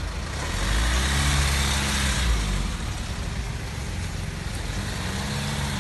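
Hyundai Santa Fe SUV engine running as the car is driven slowly, its note rising and falling about a second in and again near the end, with a swell of engine and road noise early on.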